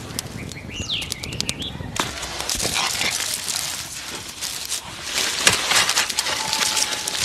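A short bird call with a few clicks early on, then rustling and scraping noise with scattered clicks that grows loudest after about five seconds.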